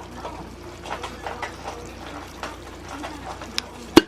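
Meat and tomato sauce simmering in a frying pan, a steady bubbling sizzle with scattered small pops and crackles. A sharp clack near the end.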